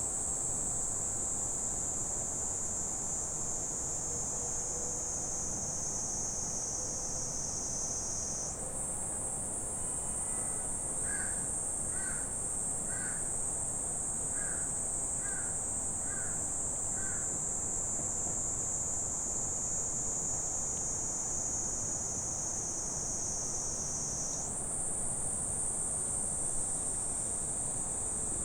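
Summer forest insect chorus: a steady, dense high-pitched buzzing that slowly sinks in pitch and jumps back up twice. About a third of the way in, a bird gives a run of seven short calls, roughly one a second.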